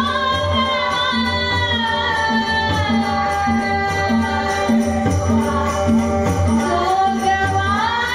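Women singing a dabalbari bhajan, a Marathi devotional song: long held notes that slide between pitches over a steady beat of drum and jingling percussion.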